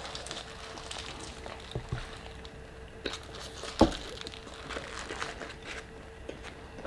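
Close-up chewing of a big mouthful of hot chicken burrito: soft wet mouth sounds with scattered small crunchy clicks, one sharper click a little under four seconds in. A faint steady hum runs underneath.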